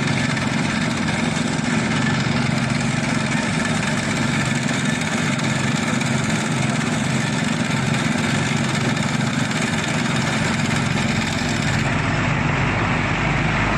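Diesel engine of heavy construction machinery running steadily at a constant speed. A deeper low rumble joins in near the end.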